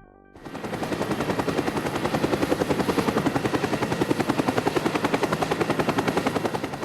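A rapid, even mechanical pulsing sound effect, about a dozen beats a second, like a rotor chopping. It starts about half a second in and eases slightly near the end.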